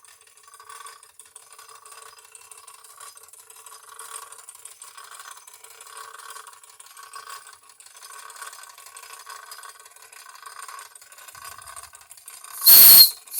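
Wilesco D36 model steam traction engine running on compressed air, its small oscillating-cylinder mechanism and gearing giving a light, uneven rattle. Near the end come two loud, shrill blasts.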